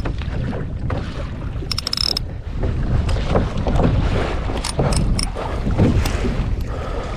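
Wind buffeting the microphone over water sloshing against a kayak hull, with a few short clicks and rattles about two seconds in and again around five seconds.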